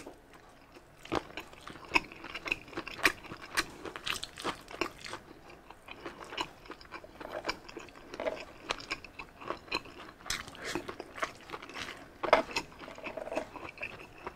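A person chewing and biting beef tapa and rice, an irregular string of short mouth clicks and smacks.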